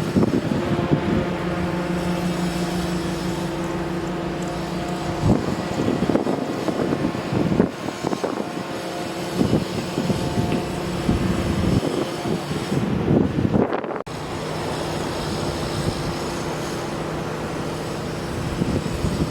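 A machine engine running steadily with a low hum, with repeated knocks and clanks over it.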